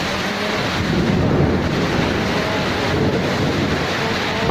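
Thunderstorm: steady heavy rain with a low rumble of thunder swelling about a second in.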